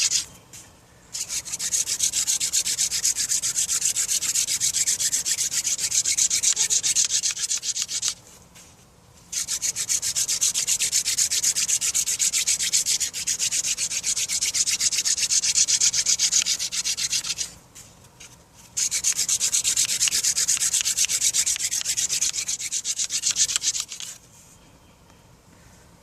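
Hand-drill friction fire: a wooden spindle spun back and forth between the palms, grinding in the notch of a wooden hearth board. It makes a fast, dry scratching hiss in three long runs with short breaks between them, and stops near the end. At this stage the hearth is producing only brown dust, with no black dust and no ember.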